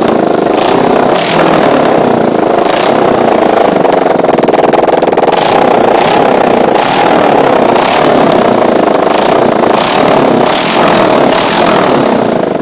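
Suzuki GS500's air-cooled parallel-twin engine running loud through an open exhaust with no muffler, being revved, with about ten sharp cracks from the exhaust scattered through.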